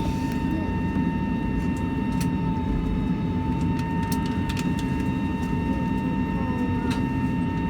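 Airbus A320 cabin noise while taxiing: a steady low rumble from the engines at taxi power, with a thin steady whine over it and a few faint clicks.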